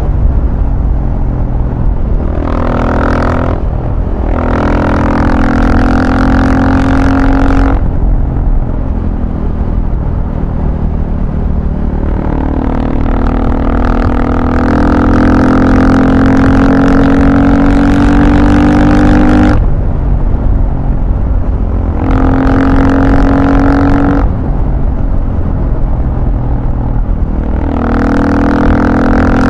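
Motor vehicle engine under way, pulling hard several times with its pitch climbing steadily on each pull. Each pull ends with a sudden drop as the throttle is closed or a gear changes, about 8, 19 and 24 seconds in, over a constant low rumble.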